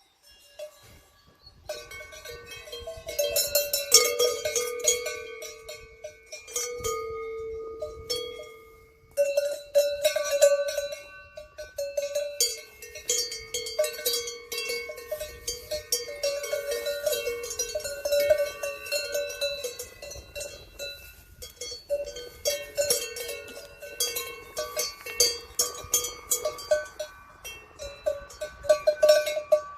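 Several cowbells on cattle clanking irregularly and ringing, with overlapping strokes and no steady rhythm.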